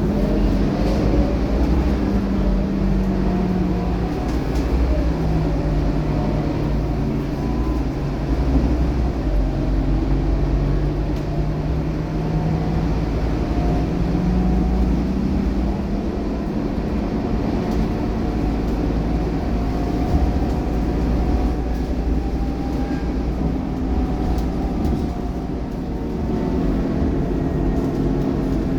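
Scania K230UB bus's five-cylinder diesel engine running under way, its note rising and falling as the bus pulls away, speeds up and eases off, over a steady low rumble of the moving bus.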